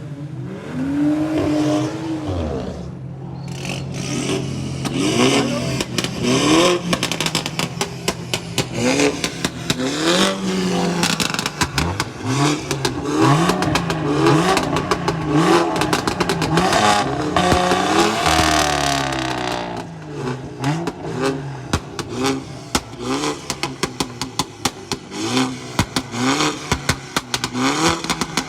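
Modified car engines revved over and over in short blips, each rising and falling in pitch about once a second over a steady idle. Sharp crackles come through thickly in the second half.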